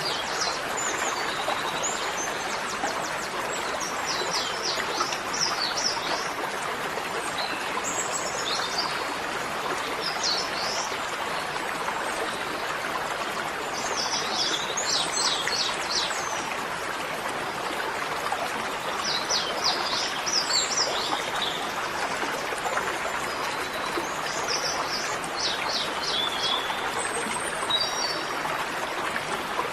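Small birds chirping in quick runs of short notes every few seconds over a steady rushing background noise.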